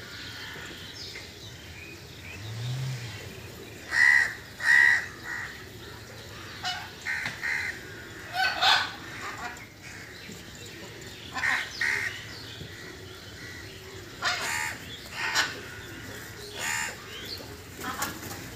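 Short, harsh bird calls, a dozen or so at irregular intervals, the loudest pair about four seconds in.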